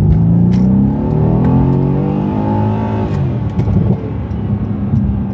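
Mercedes-AMG C63 S 4.0-litre twin-turbo V8 under hard acceleration: the revs climb steadily for about three seconds, then fall sharply, and the engine carries on at lower revs.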